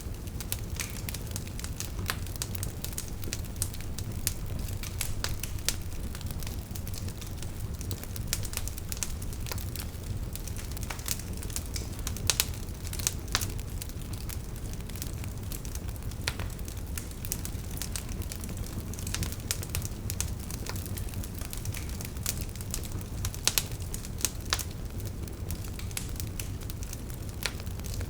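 Wood fire burning steadily with a low rumble and frequent sharp crackles and pops from the burning logs, a few louder pops among them.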